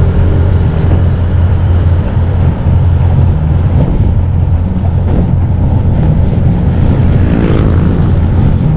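Steady low wind rumble on an action camera's microphone while riding a bicycle.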